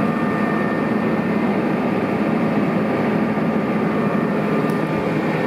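McCormick XTX 200 Xtraspeed tractor's diesel engine running steadily, with a thin steady high-pitched whine over the engine note.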